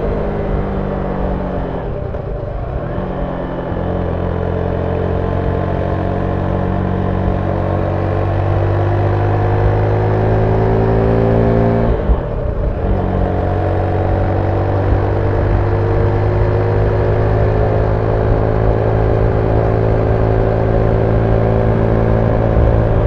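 Zontes 310V's single-cylinder engine pulling with its stock exhaust, revs climbing steadily. The pitch breaks and drops briefly about two seconds in and again about midway, as on gear changes, then climbs again.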